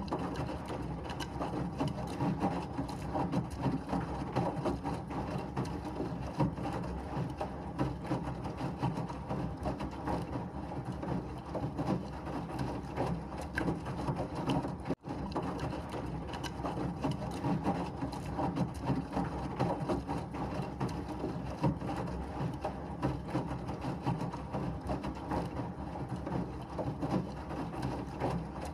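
Washing machine running, a steady churning rumble with a constant fine rattle, cutting out for an instant about halfway through.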